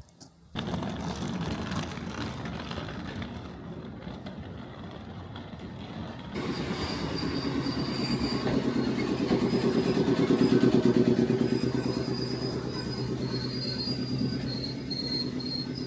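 Train running on the rails, growing louder about six seconds in as a rapid rhythmic rumble sets in with high, intermittent wheel squeal over it.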